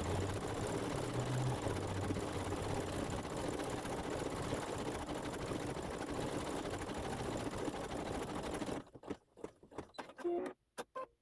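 Embroidery machine stitching out a design at a steady run. It stops about nine seconds in, followed by a few short clicks.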